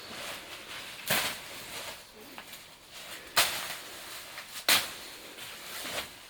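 Three sharp, sudden strikes about a second or two apart, the second and third the loudest, over a faint steady hiss.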